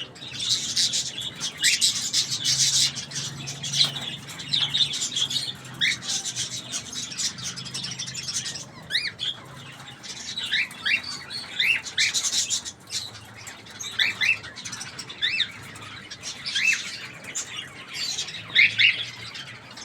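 Cockatiels in their cage chirping: many short, sharply rising chirps throughout, with bursts of dense, scratchy chatter and rustling about a second in and again around the middle.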